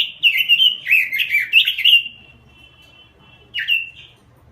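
Pekin robin singing: fast warbled phrases of quick whistled notes that bend up and down, a short pause with a faint trill partway through, then another brief phrase.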